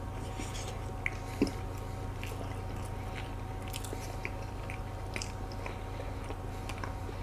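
Faint chewing of soft cookies-and-cream icebox cake, with a few small clicks, over a steady low hum.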